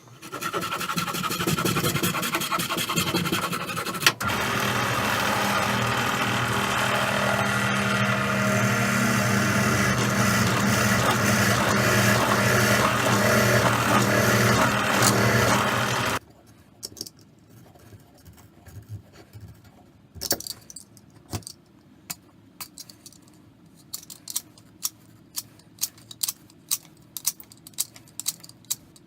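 A power tool runs steadily with a low hum and a grinding noise, then cuts off suddenly about sixteen seconds in. Afterwards come scattered scraping clicks that settle into a quick, regular ticking near the end.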